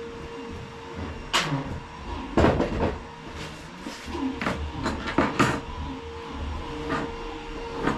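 Hard objects being handled during plumbing work: a string of irregular knocks, clunks and scrapes, loudest about two and a half and five and a half seconds in.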